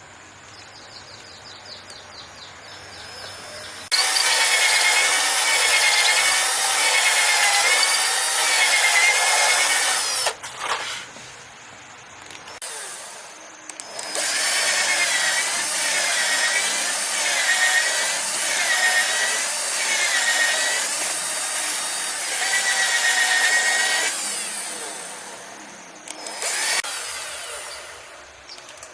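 Bamboo being sawn in two long spells of steady back-and-forth cutting, the pitch rising and falling with each stroke; the first spell stops about ten seconds in and cutting resumes a few seconds later.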